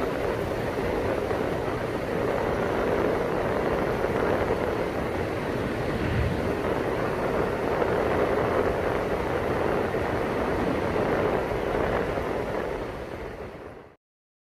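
Steady rumble of vehicle engines and traffic, with no distinct events, fading out near the end.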